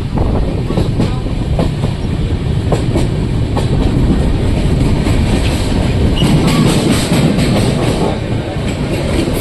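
Moving passenger train: a steady loud rumble, with the clickety-clack of wheels over rail joints.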